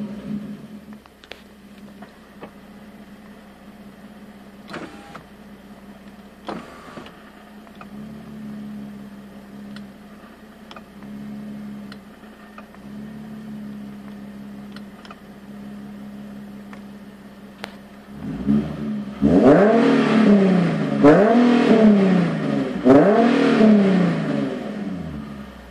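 Nissan 370Z's V6 engine running steadily, with scattered light clicks and rattles, then revved three times near the end. The clicks are the interior rattle the owner is chasing.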